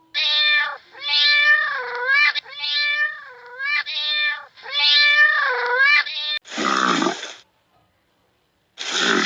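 An animal giving a series of about six drawn-out pitched calls, each bending up and down in pitch, followed by two short rough grunts.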